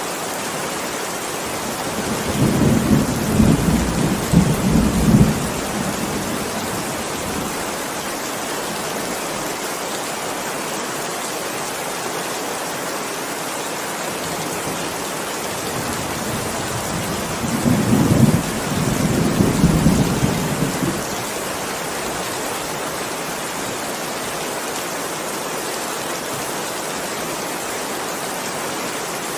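Steady heavy rain falling, with two low rolls of thunder, each lasting about three seconds, one a couple of seconds in and one about two-thirds of the way through.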